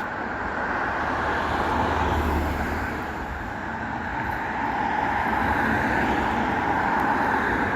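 Steady road traffic noise from passing cars, with a deeper rumble of a vehicle going by about two seconds in.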